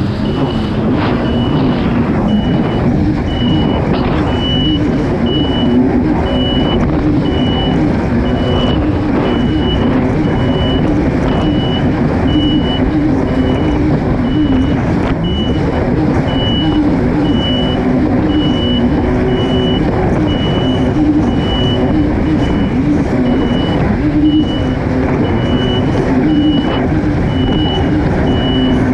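Kawasaki STX-160 jet ski's four-stroke engine running steadily at racing speed, its pitch wavering slightly, with a high electronic beep repeating a little under twice a second.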